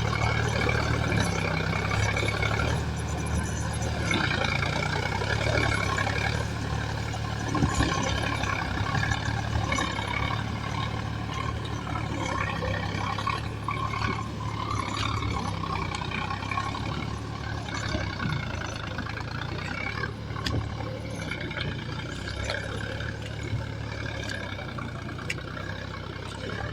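Diesel engine of a JCB 3DX backhoe loader running steadily as the machine works, growing slightly quieter toward the end.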